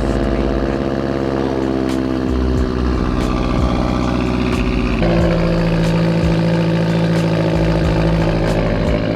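Straight-piped Mazdaspeed 6's turbocharged 2.3-litre four-cylinder idling loudly after a cold start, having sat for a few days. Its idle eases slightly down, then the tone changes abruptly about five seconds in.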